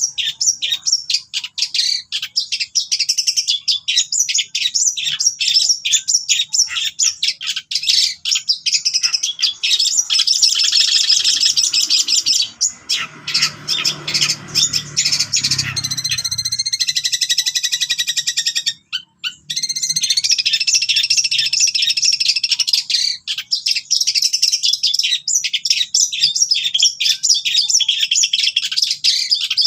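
Long-tailed shrike singing a continuous, fast run of short chattering notes and trills, with a brief pause about two-thirds through. A faint low rumble sits under the song around the middle.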